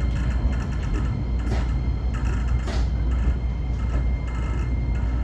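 Steady running noise inside the cab of a 125 series electric railcar: a strong low rumble with a thin steady whine and scattered short clicks and knocks.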